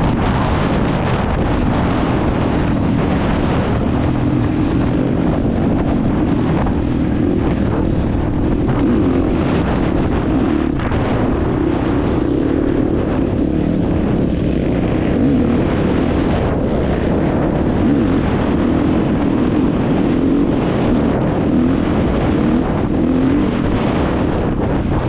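Dirt bike engine running steadily while riding, with heavy wind buffeting on the microphone.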